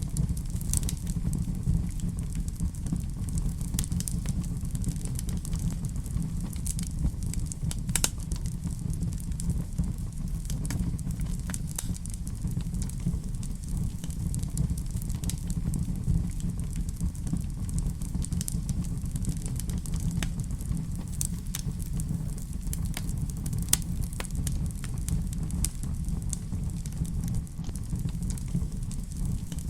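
Wood fire in a fireplace crackling, with a steady low rumble of flames and scattered sharp pops and snaps, one louder pop about eight seconds in.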